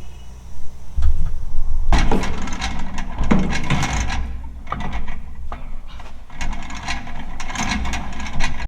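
Irregular knocks, clicks and rattles of handling and tool work, over a low rumble that starts about a second in.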